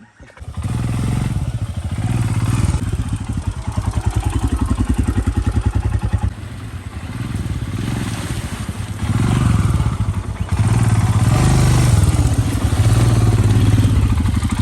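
Motorcycle engine running close by, its engine speed rising and falling, easing off around the middle and louder again near the end.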